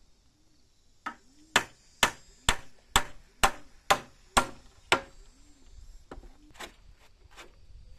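Hammer driving a nail into timber: a run of about nine sharp blows at roughly two a second, then two more spaced-out blows near the end.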